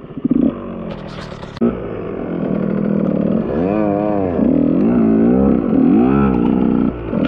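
KTM EXC 125 two-stroke enduro motorcycle engine revving, its pitch climbing and falling again and again as the throttle is worked, getting louder after the first couple of seconds.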